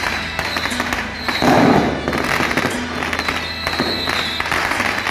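Dense, rapid crackling of firecrackers over music, with a louder burst about a second and a half in.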